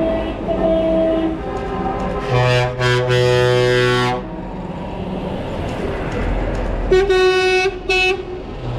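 Truck air horns honking over the rumble of passing trucks: a long blast of about two seconds a couple of seconds in, then a different, higher horn sounding twice near the end.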